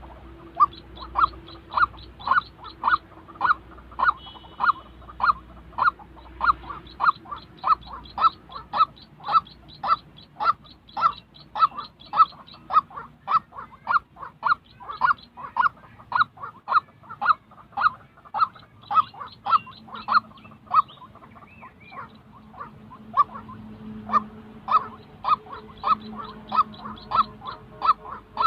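White-breasted waterhen calling, a long run of short, loud, honking notes at about two a second. The notes break off for a couple of seconds after about 21 s, then start again.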